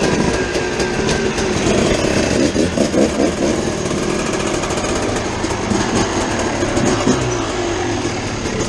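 Dirt bike engines running with a rapid, rattling beat, blipped up and down in pitch as the bikes pull forward.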